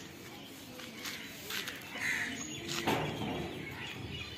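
A bird gives one short call about two seconds in, with a few faint knocks and a low outdoor background around it.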